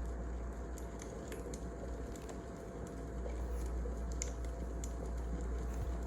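Wood fire crackling: scattered, irregular sharp snaps and pops over a steady low rumble.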